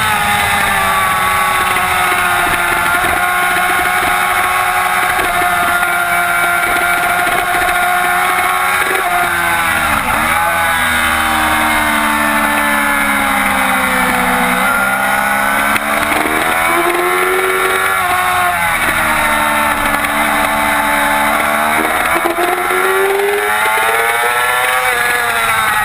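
2007 Yamaha YZF-R6's 600 cc inline-four engine at racing revs, its pitch climbing and falling again and again through gear changes and braking. It drops sharply about ten seconds in, with wind rush underneath.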